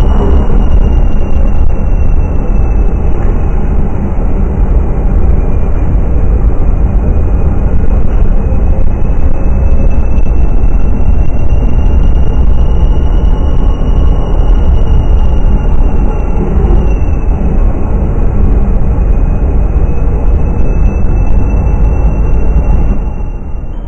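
Ride on the Troublesome Trucks Runaway Coaster, a family roller coaster: its train running along the track in a loud, continuous rumble with a steady high-pitched whine above it. The rumble eases off about a second before the end.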